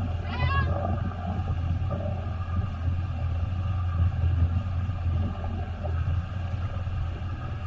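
Jet ski running over water: a steady low rumble that rises and falls, with wind on the microphone. A brief high-pitched squeal or cry about half a second in.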